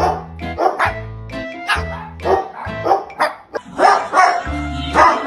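Music with a steady, blocky bass line, with a dog barking over and over, about once a second.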